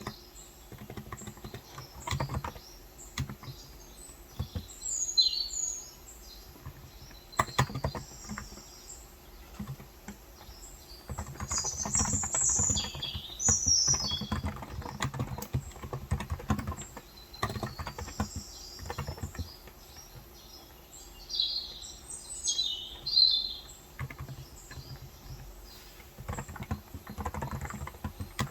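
Typing in irregular bursts on a Cox Endeavor electro-capacitive tenkeyless keyboard with light 35 g switches. Birds chirp in short high phrases in the background several times.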